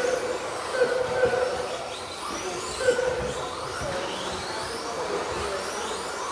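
Several nitro-fuelled RC truck engines running on the track, their high-pitched whines rising and falling as they rev up and back off.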